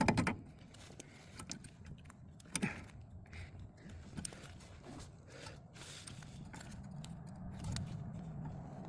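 Irregular small metal clicks and scrapes of hand tools working at a stuck snap ring in a wheel hub assembly, over a low steady hum.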